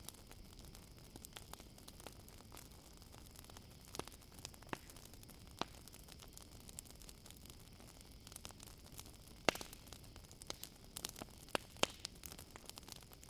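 Wood campfire crackling with scattered sharp pops and snaps, the loudest about nine and a half seconds in and a flurry of them near the end. Under it runs a steady, high chirring of crickets.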